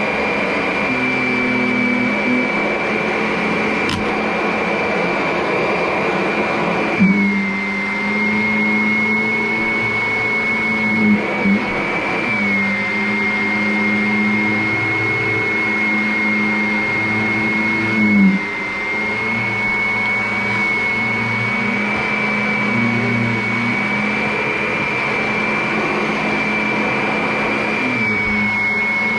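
Vacuum cleaner running steadily with a high motor whine that dips slightly in pitch several times, with a few brief bumps.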